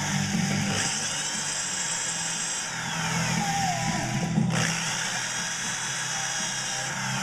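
Electric drill running, its whine dropping and rising in pitch several times.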